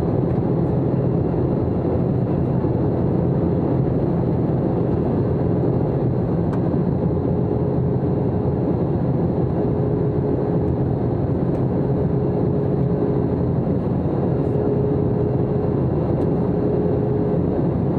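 Airbus A321-200 passenger cabin in flight: steady drone of engine and airflow noise with a constant hum.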